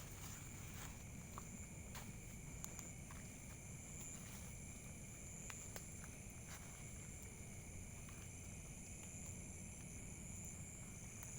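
Night insects, crickets or cicadas, chirring steadily in several even high-pitched tones, over a low rumble and a few faint clicks.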